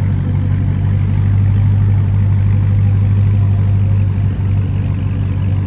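Dodge Charger 392 Daytona's 6.4-litre HEMI V8 idling cold, a steady deep low note through a straight-piped exhaust with the mid mufflers and resonators deleted and only the catalytic converters left.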